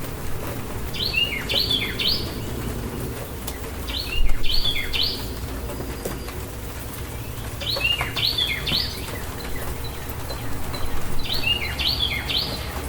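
A songbird repeating a short phrase of three quick notes four times, about every three to four seconds, over a steady rush of rain. There is a brief louder rush about four seconds in.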